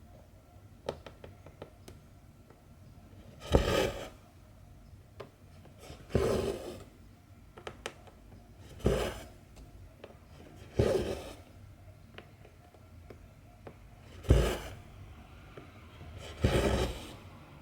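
Cotton embroidery thread pulled through 14-count cross-stitch fabric, six short rasping swishes a few seconds apart, each starting sharply and fading, with faint ticks of the needle piercing the cloth in between.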